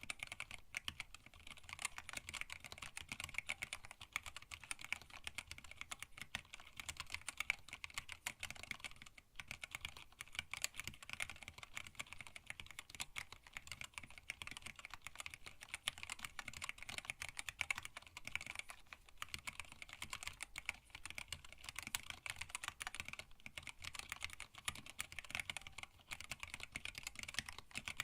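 Continuous fast typing on a hand-wired split mechanical keyboard with Tealios linear switches, blank PBT keycaps and an acrylic case: a dense stream of keystroke clacks, with a short pause about nine seconds in.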